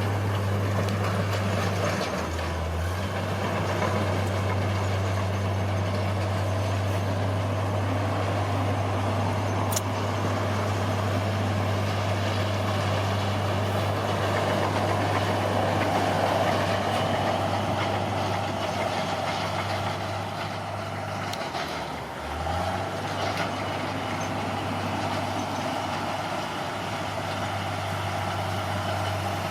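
Bulldozer's diesel engine running steadily, its note dropping briefly twice: about two seconds in and again about twenty-two seconds in.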